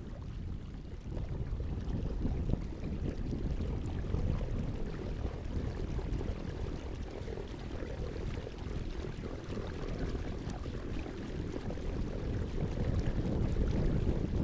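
Wind buffeting the microphone, a low rumble that rises and falls unevenly, with faint water splashing and trickling behind it.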